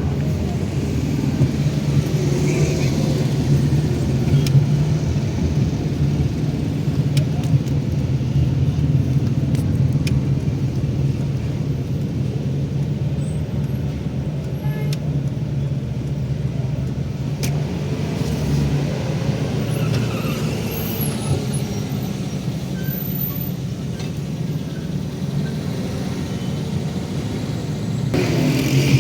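A car driving at steady speed: engine hum and road noise hold level throughout.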